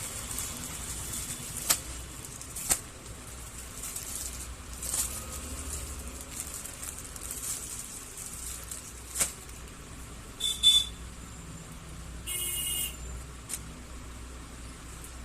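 A parcel's plastic packaging being handled and opened: steady rustling, several sharp clicks, and two short rasping rips about ten and twelve seconds in, the second one longer.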